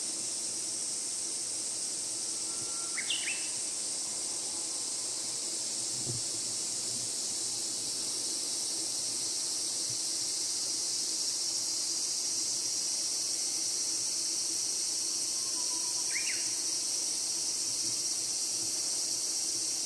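A summer insect chorus shrilling in a steady high drone. A bird gives a brief chirped call twice, about three seconds in and again later on.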